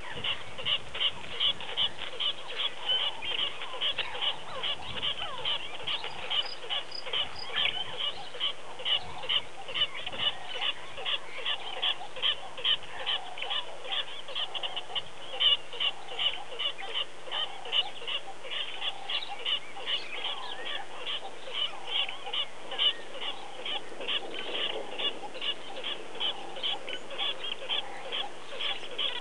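A bird calling over and over in short, high notes, about three a second, keeping a steady pace without a break.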